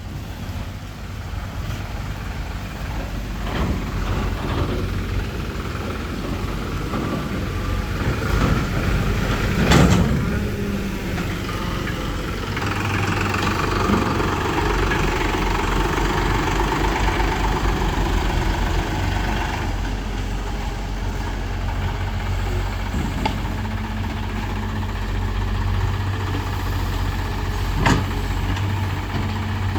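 Diesel tractor engine running steadily, with a loud thump about ten seconds in and a sharp click near the end.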